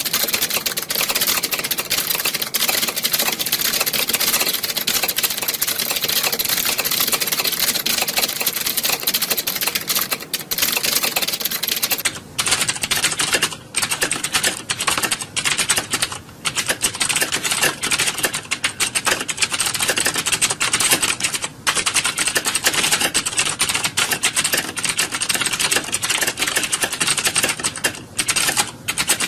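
Many computer keyboards being typed on at once, a dense, continuous clatter of key clicks, with a few brief lulls in the second half.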